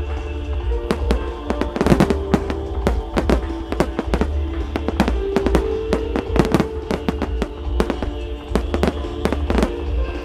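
Starmine fireworks barrage: many rapid shell bursts and cracks in quick clusters, over loud music played on the show's loudspeakers.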